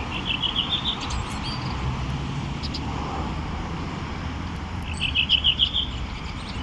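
A small bird singing a quick run of chirps, about ten a second, twice: at the start and again about five seconds in, over a steady low outdoor rumble.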